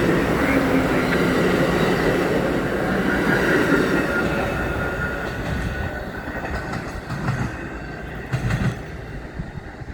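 Amtrak passenger train rolling along the rails, its rumble fading steadily in the second half as it moves away.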